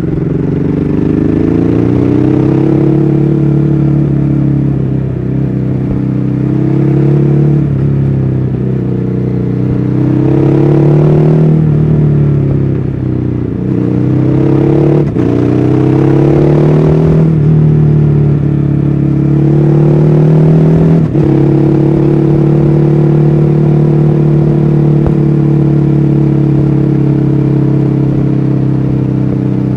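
A 2014 Ducati Hyperstrada's 821 cc L-twin engine under way, its pitch rising in a series of pulls and dropping back between them. About two-thirds of the way through it settles into a steady, even run.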